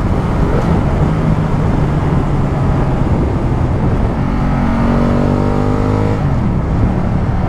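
Ducati Multistrada 1200's L-twin engine running at steady revs while the motorcycle is ridden, under a heavy rush of wind on the microphone. The engine note stands out more clearly for a couple of seconds past the middle.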